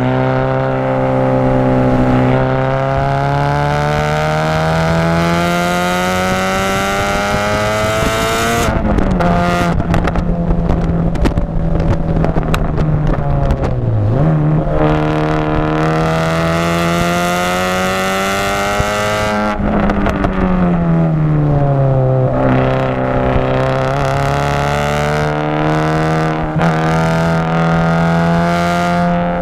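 Audi TT's turbocharged 1.8-litre four-cylinder engine heard from inside the cabin under way on a warm-up lap. It pulls up through the revs, drops sharply on an upshift about nine seconds in, and runs steadily. It climbs again until about twenty seconds in, then falls away as the car slows, and settles into steady running.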